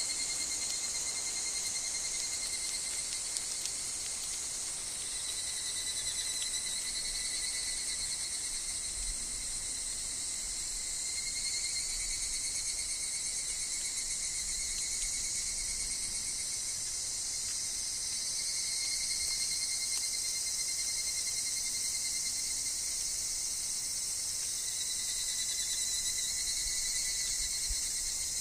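A chorus of higurashi (evening cicadas) in a forest: a steady high-pitched insect drone, with ringing, pulsing calls that fade in and out every few seconds.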